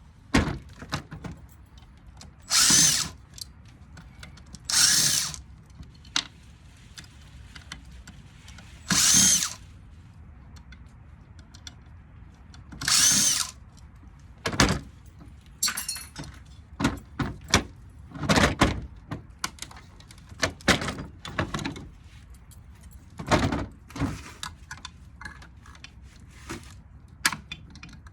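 Power drill run in four short bursts of about half a second, among scattered metal clanks and knocks as a ceiling fan motor is taken apart.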